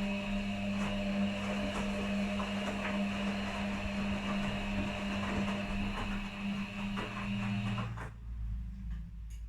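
Washing machines running a quick wash with blankets in the drums: a steady motor hum with a noisy churn and scattered clicks from the tumbling load. About eight seconds in, the motor cuts off suddenly, leaving only a low rumble.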